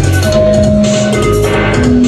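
Band music with no vocals: a steady drum-kit beat under long held pitched notes.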